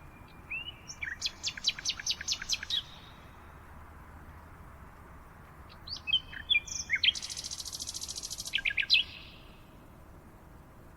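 A songbird singing two phrases: first a quick series of about eight sharp falling notes, then a few seconds later a more complex phrase of sweeping notes with a buzzy trill in the middle, over a faint steady background hiss.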